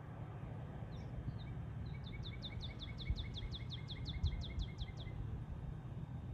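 A small songbird gives a few short chirps, then a quick run of about fifteen high, downslurred notes, roughly five a second, lasting about three seconds. A steady low rumble sits underneath.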